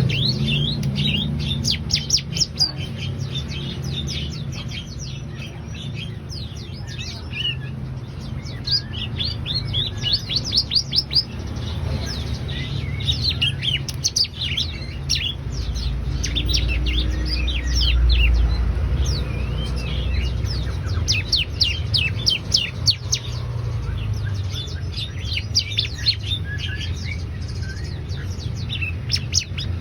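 A ciblek (bar-winged prinia) singing vigorously in bursts of rapid, sharp chirps, each a quick downward sweep, repeated in fast runs throughout. A low hum sits under the song.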